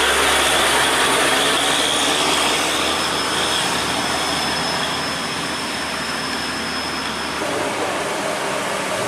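Heavy truck on the road, its engine running with a steady low drone and a thin high-pitched whine or squeal above it. The low drone drops away about seven seconds in.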